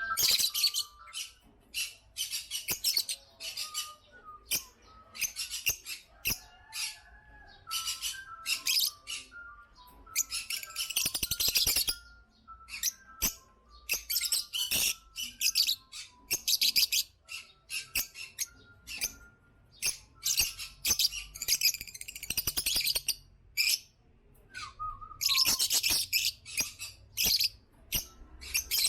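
African lovebirds chattering: clusters of rapid, shrill chirps coming in bursts with short pauses between them.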